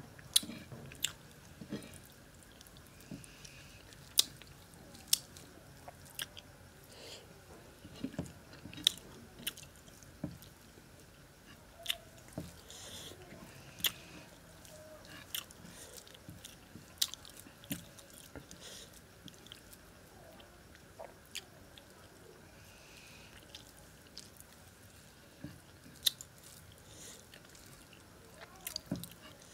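A man chewing mouthfuls of rice pulao and fish, with sharp clicks at irregular intervals, roughly one every second.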